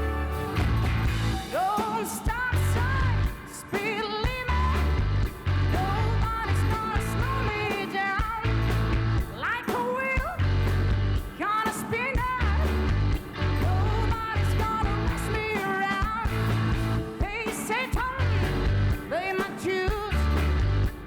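Live rock band playing: a pulsing bass line under a lead melody of bending, sliding notes.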